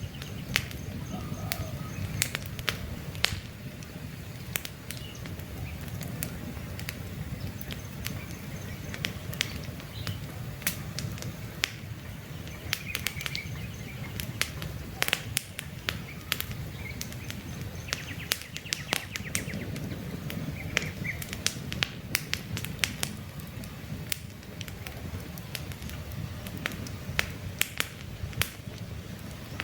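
Campfire burning: frequent sharp crackles and pops of burning wood over a low, steady rumble of the flames. Faint bird chirps come and go in the background.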